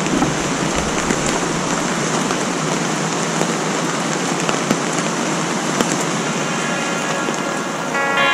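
Steady rain falling, with scattered drops ticking. Guitar music comes in right at the end.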